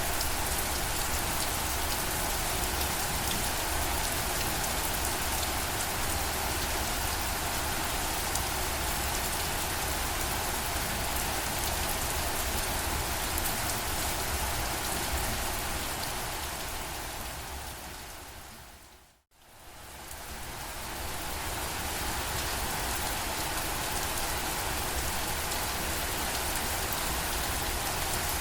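Steady rain, an even hiss across the whole range. About two-thirds of the way through it fades out to a moment of silence and fades straight back in.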